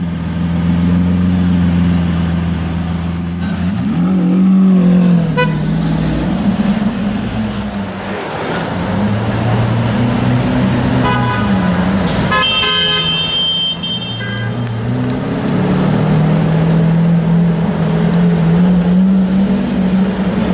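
Lamborghini Aventador's V12 engine running in slow traffic, idling with its revs rising and falling several times. A car horn sounds briefly about halfway through.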